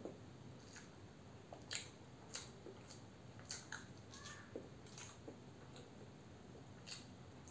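Faint mouth sounds of someone chewing a mouthful of hard-boiled egg, with scattered soft clicks.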